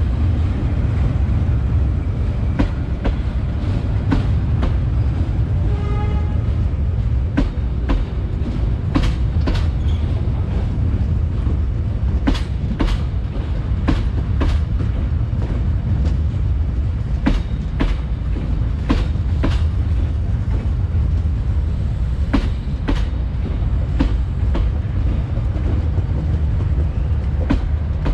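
Passenger train coaches rolling past at close range: a steady low rumble of the wheels on the rails, with clicks in pairs about half a second apart every few seconds as each bogie's wheels cross rail joints. A brief high pitched tone sounds about six seconds in.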